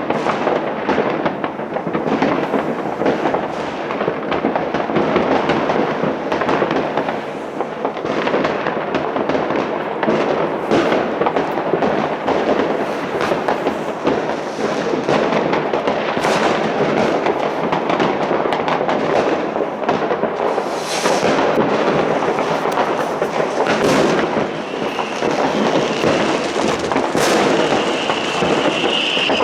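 New Year's Eve fireworks and firecrackers going off without pause, many bangs and crackles overlapping. A high whistle joins in near the end.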